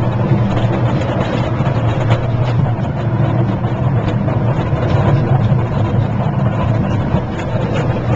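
Park ride train running along its track, heard from on board: a steady, unbroken rumble.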